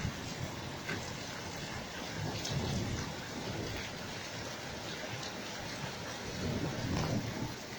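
Steady rain falling during a thunderstorm, with low rolls of thunder swelling about two and a half seconds in and again near the end.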